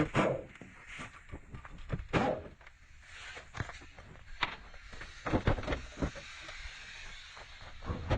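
Irregular knocks and thuds, about ten spread unevenly, typical of bodywork repair on a truck cab.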